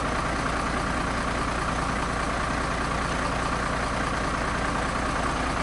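Steady engine and road noise of a truck being driven on the road, with no change in pace.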